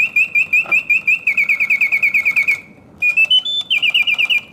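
Reuge double singing bird cage automaton, crafted in 1971, singing its mechanical birdsong: a bellows-blown whistle warbling in rapid chirps, about six a second, with a short break near the middle, then a few rising stepped notes and another fast trill. It sings with full voice, hitting the proper oscillating notes of a well-serviced mechanism.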